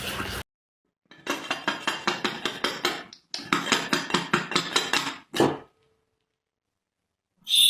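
Rapid, even, light clinking taps of something hard, about seven a second, in two runs of about two seconds each with a short break between them.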